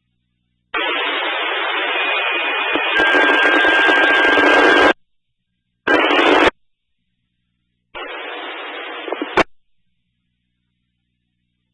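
Radio scanner putting out three bursts of hissing static with no voice, like keyed-up transmissions carrying only noise. A steady tone sits in the first, longest burst and drops to a lower pitch partway through, and the last burst ends with a click.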